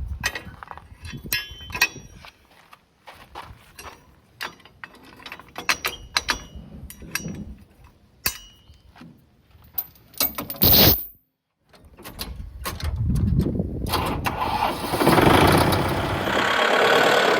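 Scattered clicks and knocks, then a Kubota tractor engine starting about twelve seconds in and running, growing louder.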